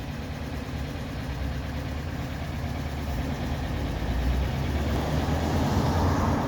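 Classic Porsche 911's air-cooled flat-six engine idling steadily, getting somewhat louder toward the end.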